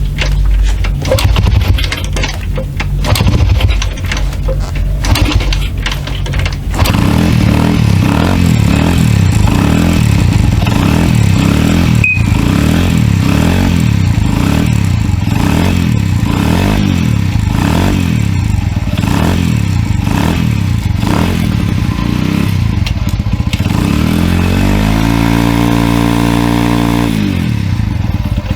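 A Honda Monkey R minibike's 49cc air-cooled single-cylinder four-stroke engine running. It sounds uneven and clattery for the first seven seconds or so, then settles into a steady idle. About 24 seconds in it is revved up, held for a couple of seconds, and drops back to idle.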